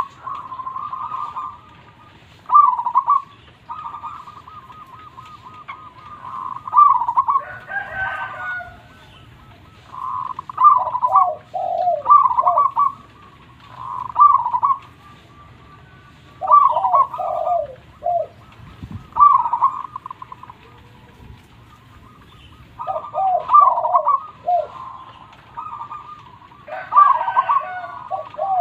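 Zebra dove (perkutut) cooing: short phrases of quick, bouncing coo notes, repeated every two to three seconds. Twice a coarser, wider call breaks in.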